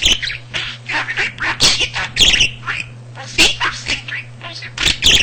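Budgerigar chattering and warbling: a fast, unbroken run of short chirps and quick up-and-down notes, over a steady low hum.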